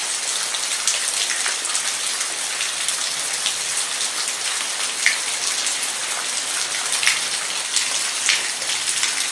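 Steady rain falling on a hard surface: an even hiss with distinct drops ticking now and then.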